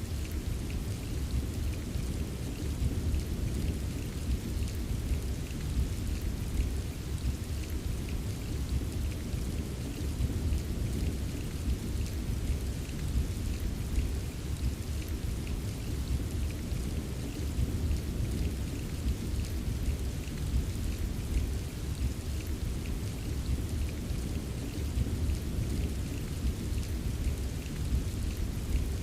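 Steady rain ambience: an even hiss of rainfall with fine drop ticks, over a deep, constant rumble.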